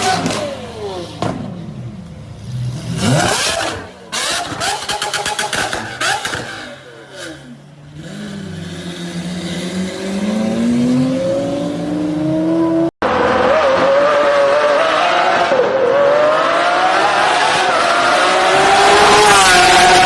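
High-performance car engines revving hard, with sharp cracks between the rapid rises and falls in revs. After a cut about 13 seconds in, one engine pulls hard under acceleration, its note climbing steadily, with a brief dip near the end like a gear change.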